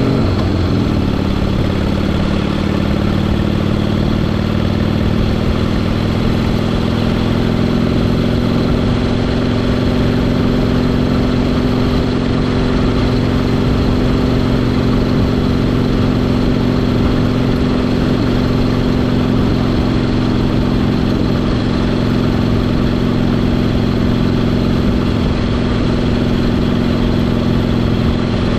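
1974 Harley-Davidson Sportster XLH Ironhead, its air-cooled V-twin running under way. The revs drop about a second in, then climb slowly over the next dozen seconds and hold at a steady cruise.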